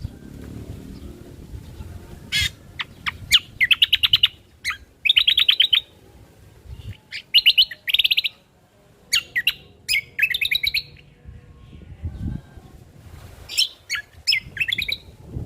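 Greater green leafbird (cucak kombo) singing: short bursts of rapid high trills, each under a second, broken by sharp single notes and brief pauses.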